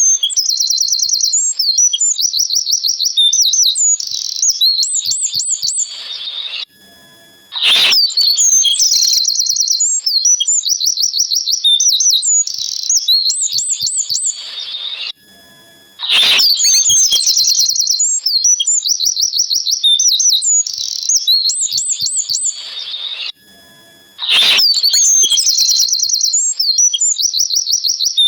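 Birdsong: high-pitched rapid chirps and trills in a sequence that repeats about every eight seconds, with a short drop-out between repeats.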